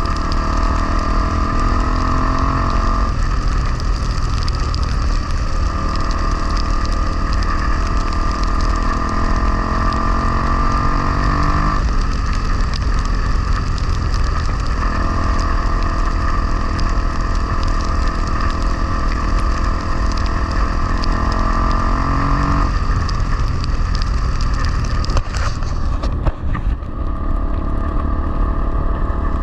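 Honda XR250R's air-cooled single-cylinder four-stroke engine running as the bike is ridden, its tone holding steady for several seconds at a time, then dropping away and coming back as the throttle is opened and closed. A heavy low rumble of wind on the microphone runs underneath.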